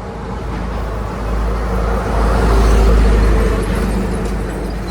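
A motor vehicle's engine passing close by, growing louder to a peak around the middle and then fading, with a heavy low rumble.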